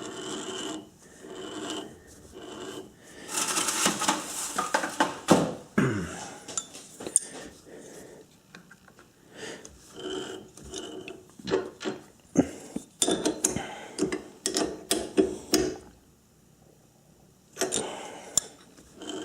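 Irregular metallic clinks and knocks of a chuck key working the jaws of a lathe chuck and handling steel tools, as a workpiece is adjusted to run true, with a busier stretch of clatter around four to six seconds in.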